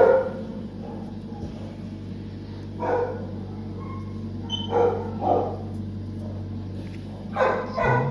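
A dog barking in short calls, a few at a time, spaced a couple of seconds apart, over a steady low hum.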